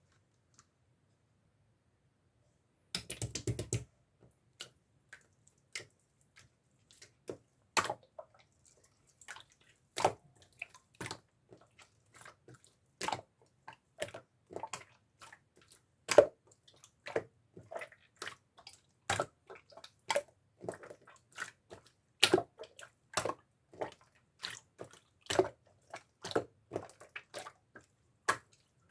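Clear slime being pressed and worked by hand, making irregular wet clicks and pops, a few a second, with a short dense crackle about three seconds in.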